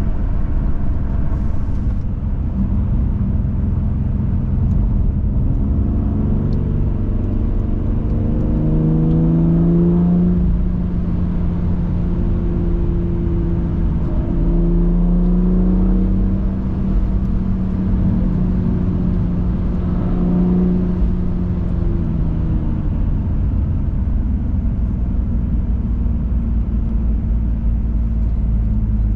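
BMW M2 Competition's twin-turbo straight-six pulling along a road, its pitch climbing twice under acceleration, holding, then easing off near the end, over a steady rumble of road and tyre noise.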